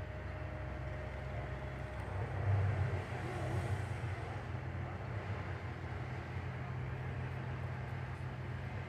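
A motor running steadily with a low rumble, swelling briefly about two and a half seconds in.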